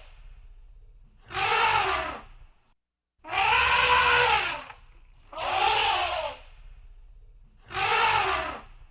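Elephant trumpeting: four loud calls about a second each, every one rising and then falling in pitch, with short gaps and a faint low hum between them.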